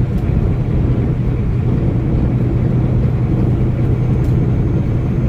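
Steady low drone of a moving truck's engine and road noise, with a constant low hum.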